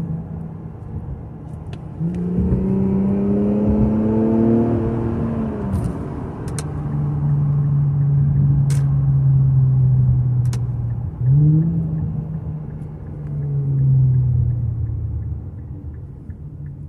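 A 2018 Infiniti Q50's 3.0-litre twin-turbo V6 with a muffler-delete cat-back exhaust, heard on two pulls under acceleration. The engine note rises in pitch about two seconds in, holds fairly steady, then climbs sharply again about eleven seconds in before easing off. The owner hears a whistling hum on these pulls that has grown louder, and can't tell whether it is normal turbo spooling or a failing turbo bearing or seal.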